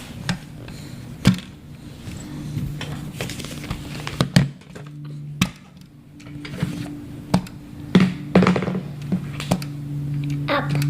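Scattered knocks and clicks of small hard objects being handled and tapped, over a steady low hum that grows stronger about halfway through.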